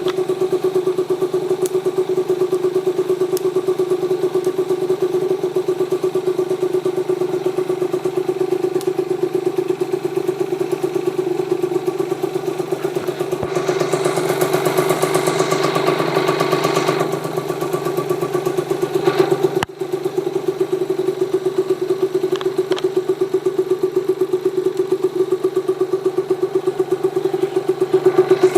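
A Yamaha TZR50R's 50cc two-stroke single idling steadily through an aftermarket expansion-chamber exhaust, with an even pulsing note. A rushing noise rises and fades about halfway through while the engine note holds steady.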